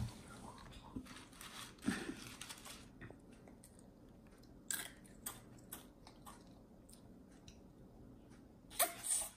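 A young child chewing and crunching dry cereal flakes, with scattered soft crunches and clicks and a louder burst near the end.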